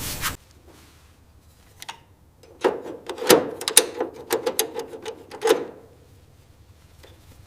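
Rubbing stops just after the start. Then comes a run of sharp clicks and light knocks lasting about three seconds, like small hard parts being handled or fitted.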